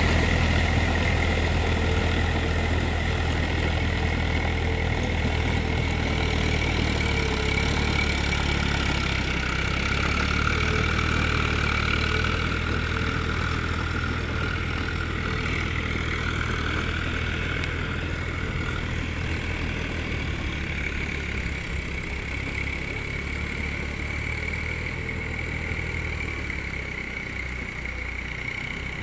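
Tractor diesel engine running steadily, its sound slowly getting quieter through the second half.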